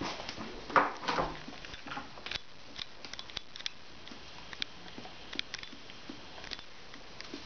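A dog licking at its nose and smacking its lips and tongue, trying to get off a dab of peanut butter: short wet clicks and smacks scattered throughout, with a louder run of them about a second in.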